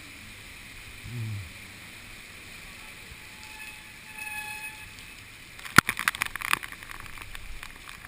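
Steady rush of typhoon wind and rain on a head-mounted GoPro Hero2, then from about six seconds in a rapid, irregular patter of sharp taps as raindrops strike the camera's housing.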